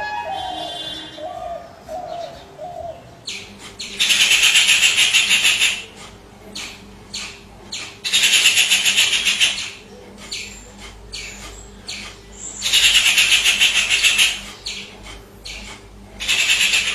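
A bird calling: a few short falling whistled notes at first, then four loud, harsh, rapidly pulsing rasping calls, each lasting one to two seconds.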